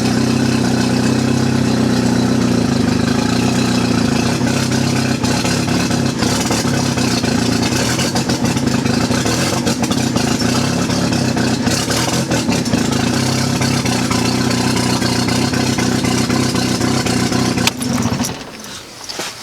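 1995 BMW E36 318ti's turbocharged four-cylinder engine idling steadily, then stopping abruptly about 18 seconds in. The owner says it is running "pig rich", a fuel mixture far too rich.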